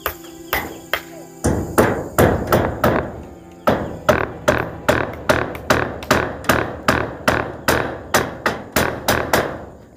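Hammer driving nails into corrugated zinc roofing sheets, a fast, even run of strikes at about three a second that starts about a second and a half in and stops near the end.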